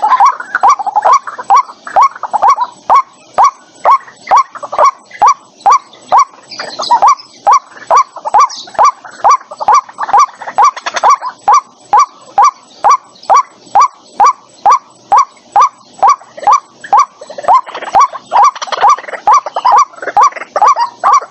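White-breasted waterhen calling: a loud, even series of short notes, about two to three a second. At times the notes crowd and overlap.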